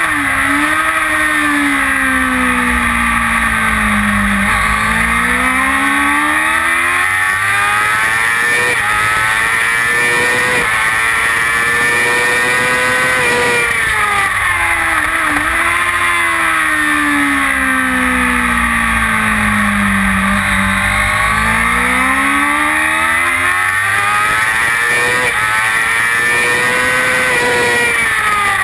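Kawasaki ZX-6R's inline-four engine at full track pace, heard from on the bike over steady wind rush: the revs fall away for several seconds, then climb steadily through the gears, and the cycle repeats twice.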